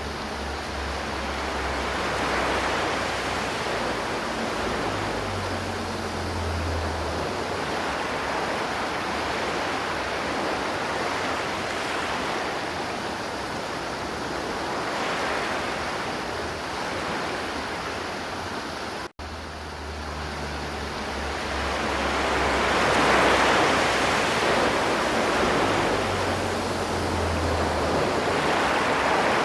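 River water flowing in a steady rush that gently swells and eases. It cuts out for an instant about two-thirds of the way in, where the recording loops.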